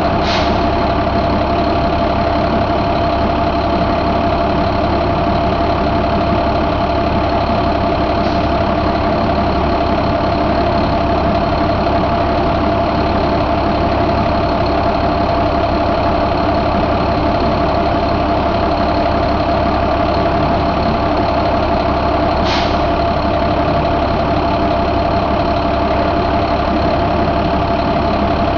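International MaxxForce DT inline-six diesel engine idling steadily, with a brief sharp hiss or click just after the start and again about three-quarters through.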